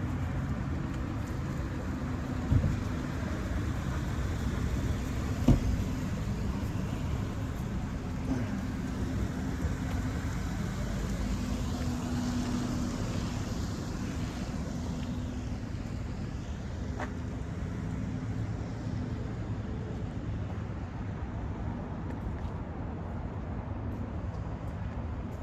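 Steady rumble of traffic and car engines, with two sharp knocks about two and a half and five and a half seconds in.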